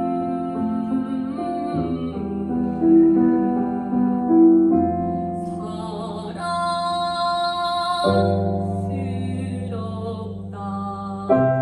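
Solo voice singing a pansori-style song over piano accompaniment, with a long wavering held note about halfway through, followed by new piano chords.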